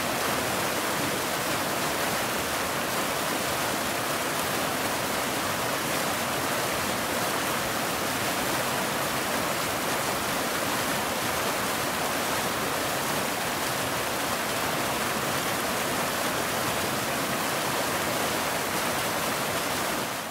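Waterfall: a steady, dense rush of falling water with no birdsong heard, fading out quickly at the very end.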